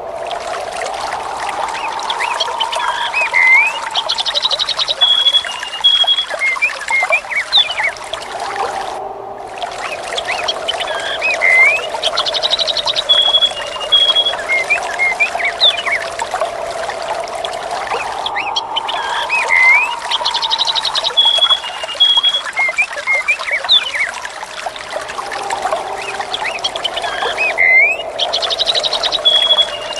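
Looped nature ambience: steady trickling, pouring water with bird chirps and a rapid high trill over it, and a slow rising and falling whoosh of wind. The same few seconds repeat about every eight seconds, with a brief dropout at each seam.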